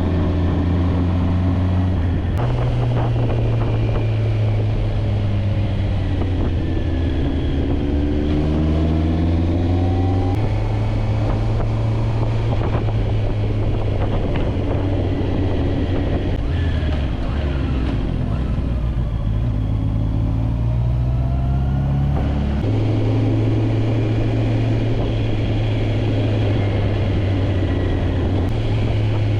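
Motorcycle engine running while riding, its note gliding up under throttle and jumping in pitch suddenly a few times as gears change, over steady road and wind noise.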